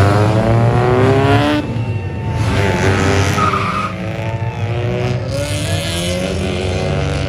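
A car engine revving hard as the car accelerates away, its pitch climbing, then dropping off sharply about a second and a half in. More engine revving and running follow through the rest.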